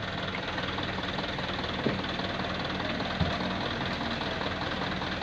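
Dump truck's diesel engine running steadily, with two short knocks about two and three seconds in.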